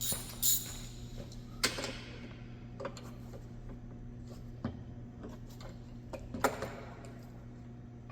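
Scattered metallic clicks and knocks of a ratchet and 15 mm socket being fitted to and worked on the bolts of a Ford Bronco's front bumper, a few louder knocks standing out among lighter ticks.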